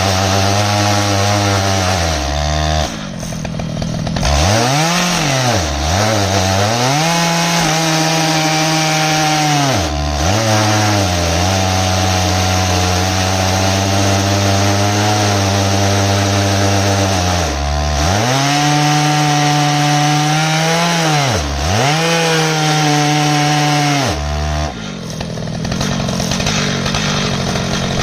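Stihl MS881 two-stroke chainsaw running under load in an Alaskan chainsaw mill, cutting through an ash log. Its pitch dips and recovers several times as the chain bogs in the cut.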